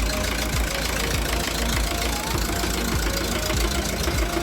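An engine idling steadily, with a fast, even knocking pulse.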